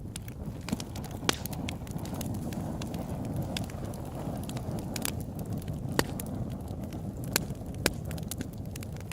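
Open-air wood campfire burning, a steady low rush of flame with irregular sharp crackles and pops, a few louder snaps standing out.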